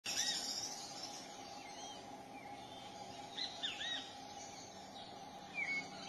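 Short, arched bird chirps, singly and in quick groups of two or three, over a steady background hiss.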